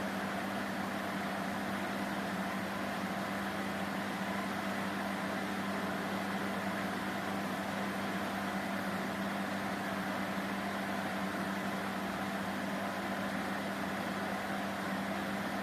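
Corsa pickup's electric radiator fan motor running steadily on test, with a steady hum over a whirring rush of air.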